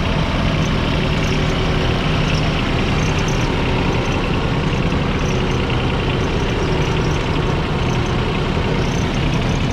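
Yanmar KE-140 tractor's 0.7-litre three-cylinder diesel engine running steadily.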